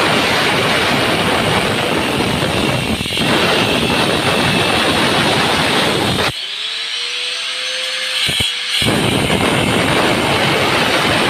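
Power tool cutting into the floor at the toilet drain position, a loud harsh grinding. About six seconds in the cutting noise drops out for a couple of seconds, leaving the motor's whine rising as it spins free, then the cutting resumes.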